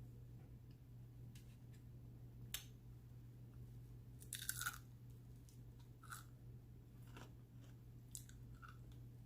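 Faint close-up chewing and biting on crunchy Flamin' Hot Cheeto-crusted fried chicken wings, with scattered small mouth clicks and a louder crunching cluster a little after halfway.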